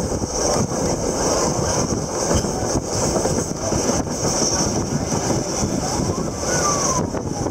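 Train running along the track, heard from on board the carriage: a steady rumble and rattle of wheels on the rails with a rushing hiss of air.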